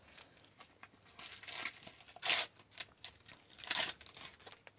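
A Topps NHL sticker pack's wrapper being torn open and crinkled: a few short rips and rustles, the loudest a little past two seconds in.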